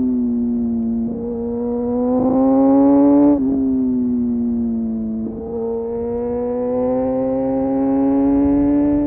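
Kawasaki Ninja motorcycle engine through an Arrow aftermarket exhaust, heard from the rider's helmet while riding. The engine note climbs under throttle, drops sharply a little over three seconds in, falls away, then climbs slowly again from about five seconds in.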